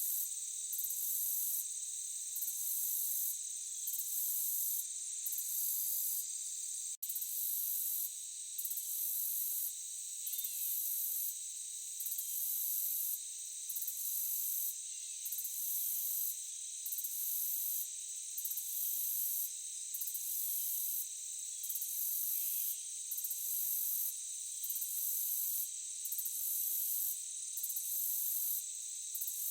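Insect chorus: a steady high buzzing with a shriller layer that pulses on and off roughly every second and a half. It cuts out for an instant about seven seconds in.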